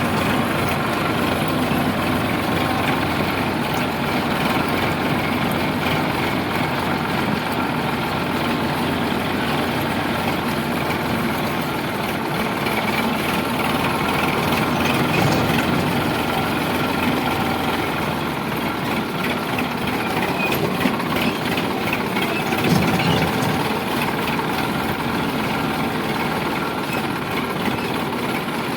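Sonalika DI 745 tractor's diesel engine running steadily, with a brief swell in loudness late on.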